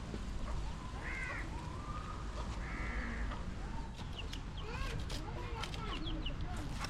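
Birds calling: two drawn-out calls about one and three seconds in, then a run of short chirps, over a steady low background rumble.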